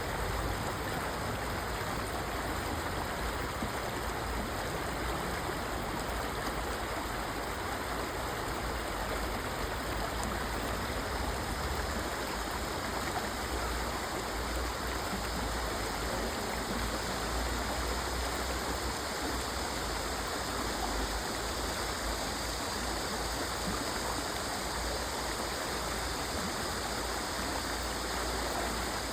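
Stream water flowing steadily, an even rushing without breaks.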